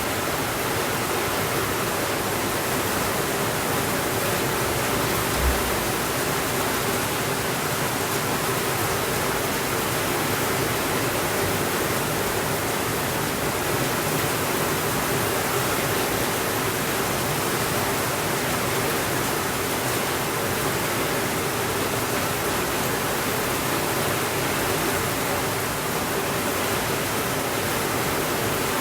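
Steady rainfall, a dense, even hiss that does not let up, with one brief low thump about five seconds in.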